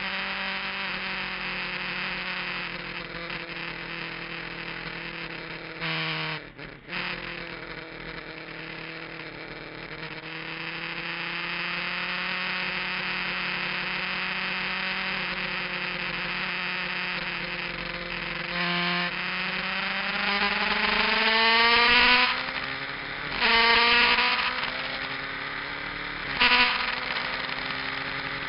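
Kawasaki GPZ900R's inline-four engine under way, with a short throttle break about six seconds in. From about eighteen seconds the pitch rises under acceleration, and there are two sharp breaks near the end as it shifts up, each followed by another rise.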